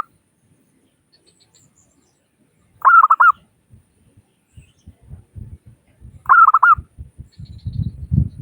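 Zebra dove (perkutut) cooing twice, about three seconds in and again about six seconds in, each call a quick run of four or five rolling notes. Low rumbling thuds build up through the second half, loudest near the end.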